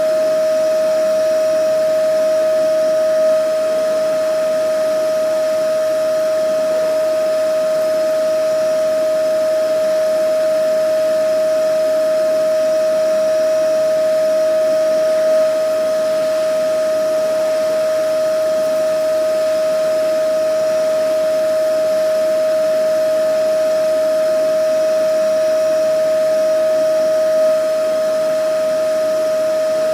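Vacuum cleaner running steadily: a constant whine over an even rushing of air.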